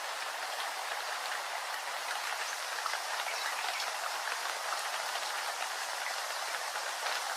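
Steady rain: an even hiss of many drops falling, with no breaks or changes.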